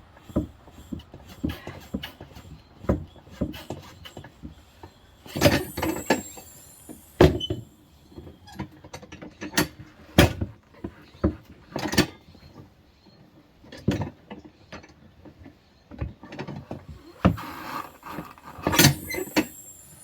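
Manual tire changer's bead breaker being worked by hand against a steel wheel: irregular metal clanks and clicks from the lever and mechanism, about one a second, with two longer, noisier stretches about five seconds in and near the end as the tire bead is pushed off the rim.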